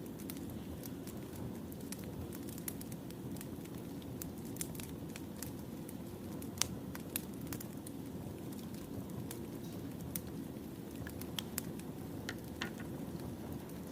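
Wood fire burning: a steady low rumble with scattered sharp pops and crackles of burning firewood, the loudest pop about halfway through.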